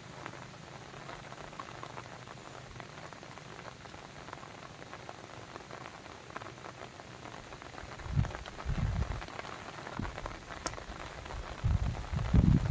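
Steady rain pattering, a dense haze of small drops. In the second half, several low rumbles swell up, the loudest near the end.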